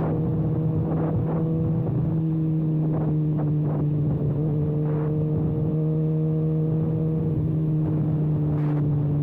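Kawasaki ZX-6R inline-four running at a steady engine speed through an open exhaust with the silencer can removed, giving a loud, even drone with a few short knocks over it.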